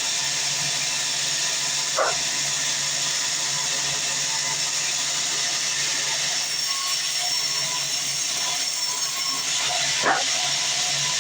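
Sawmill band saw running with a steady, even hiss. Two brief yelps cut through it, about two seconds in and near the end.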